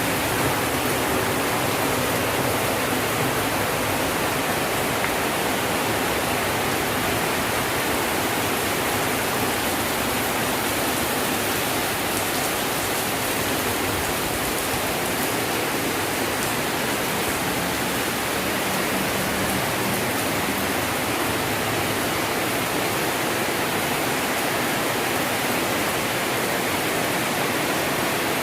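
Heavy rain falling at night, a dense, even wash of noise that holds steady throughout.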